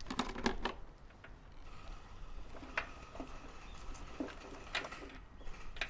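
Scattered light clicks and taps of hands handling wiring and a small tool, busiest in the first second.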